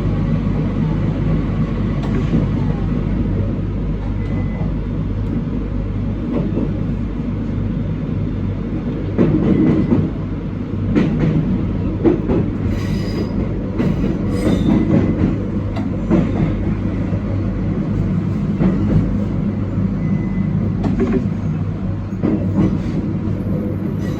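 Local train running on the rails, heard from behind the driver's cab: a steady low rumble and hum, with a cluster of sharp clicks and knocks from rail joints and points about halfway through and again near the end.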